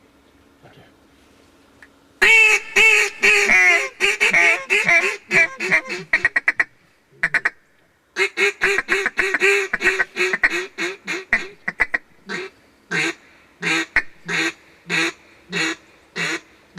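Mallard duck call blown in a loud, fast run of quacks that tapers off, a short break, then a second quick run. After that come slower single quacks, about two a second, the cadence a hunter uses to call passing ducks in.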